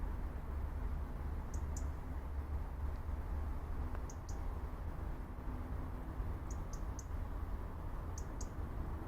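Pine-forest ambience: a steady low rumble under short, high-pitched bird chirps that come mostly in quick pairs every second or two.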